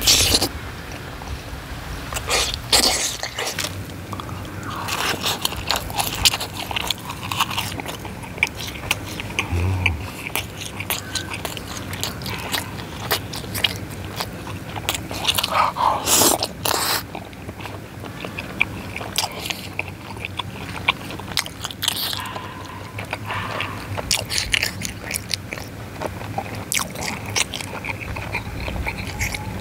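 Close-miked eating: chewing tteokbokki rice cakes in spicy sauce, with many short wet clicks and smacks of the mouth.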